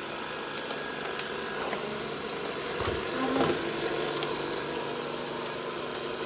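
Vacuum cleaner running with a steady hum, with clicking and rattling over it, loudest about three seconds in.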